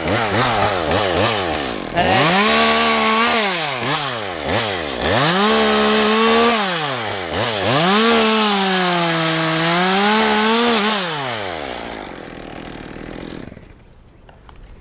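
Chainsaw engine revving up and down repeatedly as it cuts through a limb, its pitch sagging under load during the longest stretch. Near the end it dies away.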